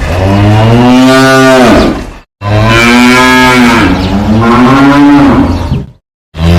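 Cow mooing: long, loud moos one after another, each a few seconds long, with a short pause between them and another moo starting near the end.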